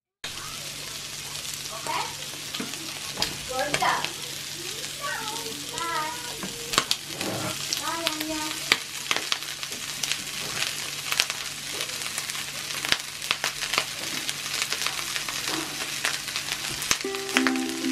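Shrimp, mixed vegetables and egg sizzling in a hot frying pan as cooked rice is tipped in: a steady frying hiss with many sharp pops and clicks.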